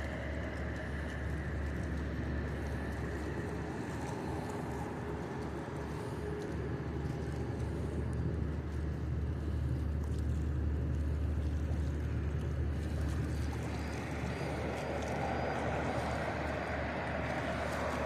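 Steady low engine rumble with a constant hiss of outdoor noise, the hum strongest near the middle and the hiss growing a little louder toward the end.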